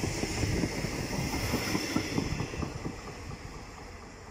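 Koleje Dolnośląskie SA134 diesel multiple unit passing close by, its wheels clattering over the rail joints in a rapid run of clicks over a steady rumble. It fades as the train moves away.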